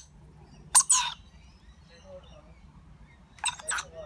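Rainbow lorikeets giving short, harsh screeching calls: a quick pair about a second in and another pair near the end.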